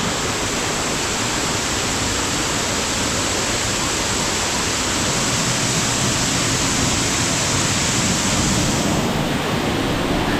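Large waterfall falling close by: a loud, steady rush of water. The high hiss drops a little near the end.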